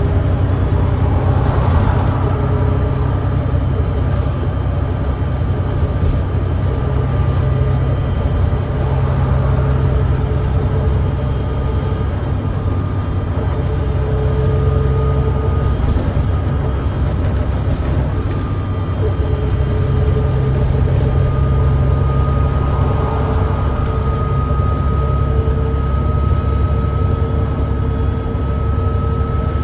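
Volvo B9TL bus's 9.3-litre Volvo D9B diesel engine running steadily under way, a continuous low drone with a faint whine that rises a little in the second half. The bus has an exhaust leak that makes the engine thrash.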